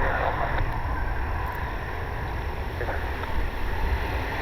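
Wind buffeting the microphone, a steady low rumble with no clear engine tone.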